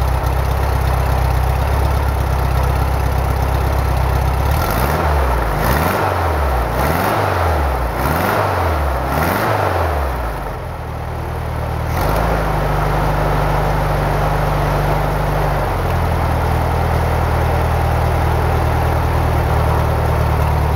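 Freshly overhauled Volkswagen Beetle engine, on its first run after the rebuild, idling steadily. About a quarter of the way in it is blipped about five times in quick succession, each rev rising and falling, then it drops back and settles to a steady idle.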